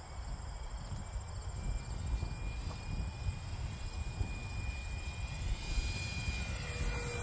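Electric ducted fan of a Freewing MiG-15 64 mm model jet whining in flight, a thin steady tone that creeps slightly higher in pitch, over heavy wind rumble on the microphone.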